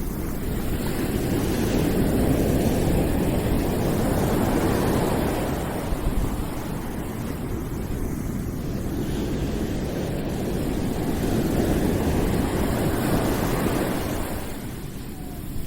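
Continuous rushing noise, deepest and strongest in the low range, with no distinct tones or events, swelling and easing slowly over several seconds: a calming noise track.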